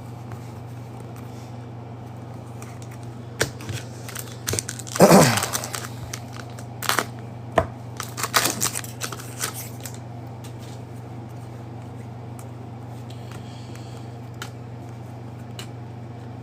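Trading card pack wrapper being torn open and crinkled: a few sharp clicks, one longer rip about five seconds in, then a run of short crinkles, over a steady low hum.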